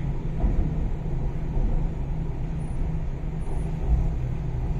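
Inside a moving MTR East Rail line R-Train electric multiple unit: a steady low rumble of the wheels on the track and the running gear, with no changes in level.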